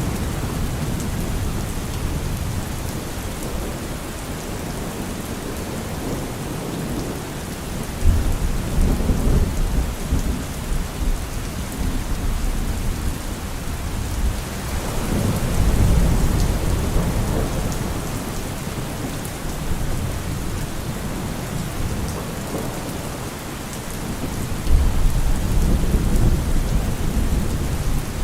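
Steady rain falling, with thunder rumbling low three times: a sudden rumble about 8 seconds in, a swelling one around the middle, and another sudden one near the end.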